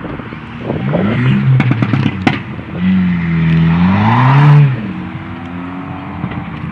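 A performance car's engine revving hard, its pitch climbing and dropping, with sharp exhaust pops and crackles about one to two seconds in. This is followed by a louder, longer rev that rises and then falls away near the middle.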